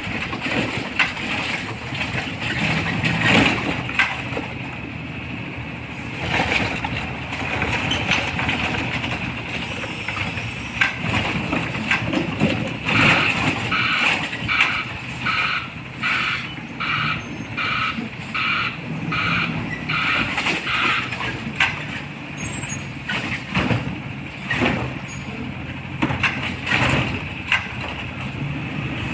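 Garbage truck engine running, with its reversing alarm beeping about once a second for several seconds midway through, and short bursts of hiss and clatter around it.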